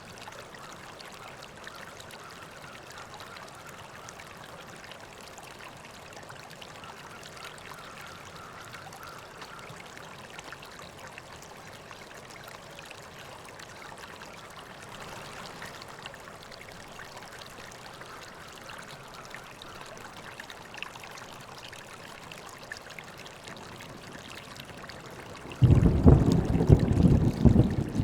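River water flowing and trickling steadily. Near the end a loud, deep rumble of thunder breaks in suddenly and drowns it out.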